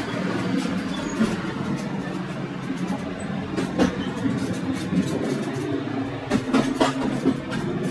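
PKP TLK passenger train rolling along at speed, with a steady rumble of wheels on rails. A few sharp clacks of the wheels over rail joints or points come about halfway through and again a little later.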